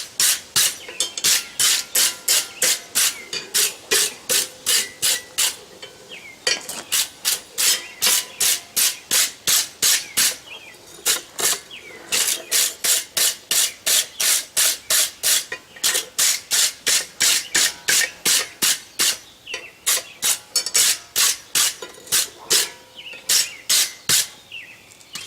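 A hand wire brush scrubbing a forged steel bar in quick back-and-forth strokes, about three to four a second, with a few brief pauses.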